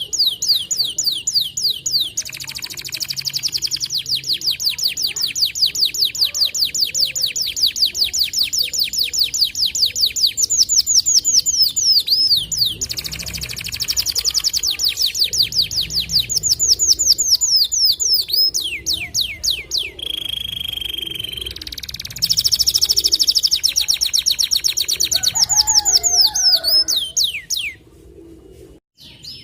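White canary singing long, rapid trills of repeated downward-sweeping high notes, broken by a few short pauses and a brief steady whistled note about two-thirds through. The song stops about a second before the end.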